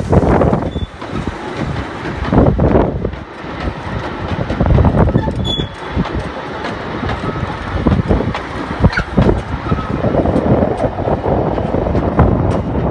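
The Hythe Pier Railway's small electric train running along the pier track, its wheels rattling on the rails with uneven surges of rumble and faint squeals.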